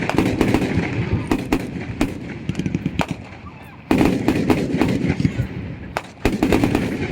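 Fireworks and firecrackers going off: dense rapid popping with louder sharp bangs mixed in. The popping dies down about three seconds in, then a fresh burst starts suddenly just before four seconds and another just after six.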